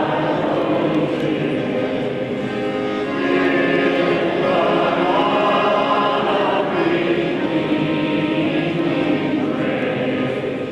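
A choir singing sustained notes in harmony.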